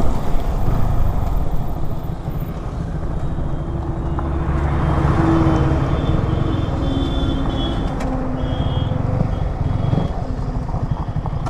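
Motorcycle running at road speed under wind and road rush, its engine note swelling about halfway through.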